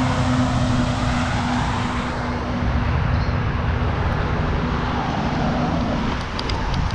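A car driving by on a wet road: a steady engine hum and tyre hiss that fade away about six seconds in.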